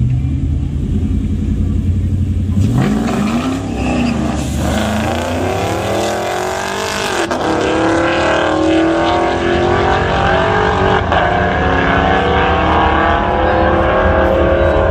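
A vehicle's engine running low and steady, revving up about two and a half seconds in, then pulling hard under full acceleration with its pitch climbing steadily to the end, as in a drag-strip launch.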